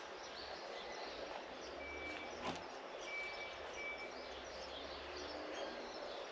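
Outdoor garden ambience: a steady background hiss with a few faint, thin distant bird chirps. There is one brief click about two and a half seconds in.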